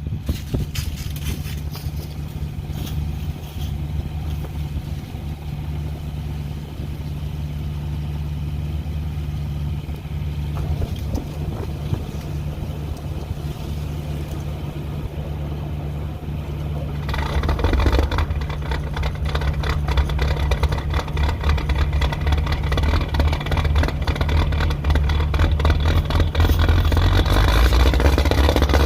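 A steady engine running, then about two-thirds of the way through an old combine's engine cold-starts with a sudden jump in sound and runs on rough and rattly, getting louder toward the end.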